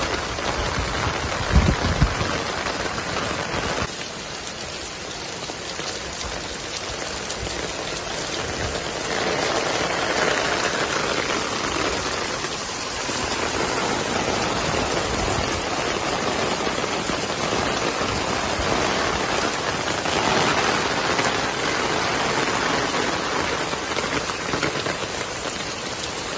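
Heavy monsoon rain pouring onto a street and roofs, a steady hiss, with a couple of low thumps about two seconds in.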